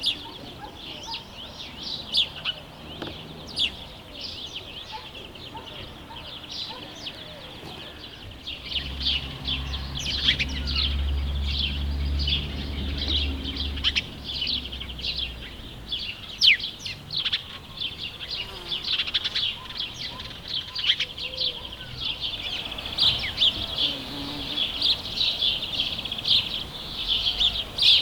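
House sparrows chirping continuously, many short chirps overlapping as from a flock. A low, steady hum comes in about a third of the way through and fades several seconds later.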